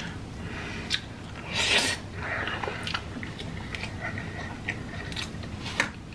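Close-miked chewing of a mouthful of pasta, with several sharp clicks of a metal fork against a plastic takeout container. A loud breathy rush comes about a second and a half in.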